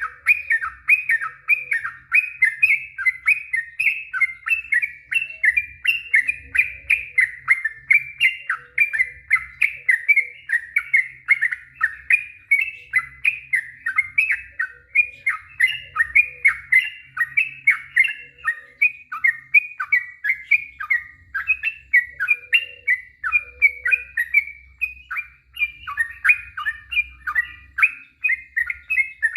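Yellow-vented bulbul (trucuk) singing a long, unbroken run of quick chirping notes, about three a second, the continuous 'ropel panjang' song.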